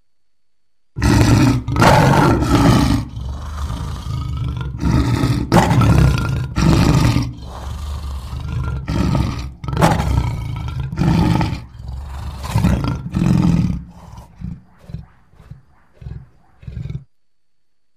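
Lion roaring: a bout of loud, deep roars starting about a second in, trailing off near the end into a series of about six shorter, fainter grunts.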